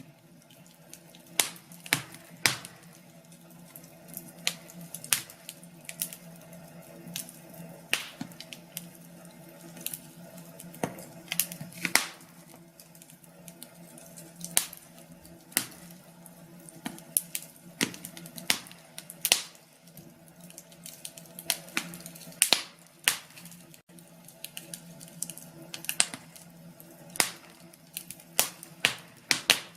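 Wood fire in a fireplace crackling, with irregular sharp pops and snaps, one or two a second, over a steady low hum.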